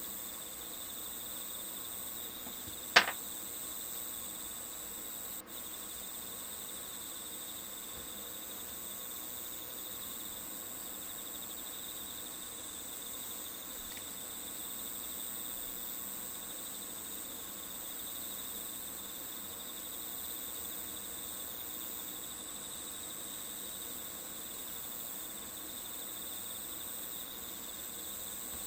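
Crickets chirring steadily as a background nature ambience. A single sharp click stands out about three seconds in.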